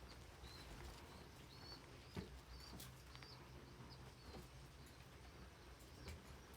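Faint, short, high-pitched bird chirps, repeated irregularly, with a soft knock about two seconds in.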